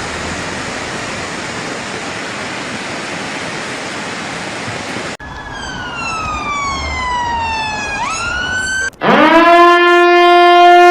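A steady rushing noise for about five seconds, then a siren whose pitch falls slowly and sweeps back up, and near the end a loud, low, steady siren tone that rises quickly into place.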